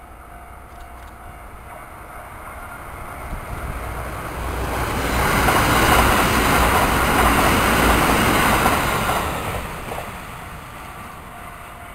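Kintetsu limited-express electric train passing at speed. Its wheel and running noise builds over a few seconds, is loudest about halfway through, then fades as the train clears.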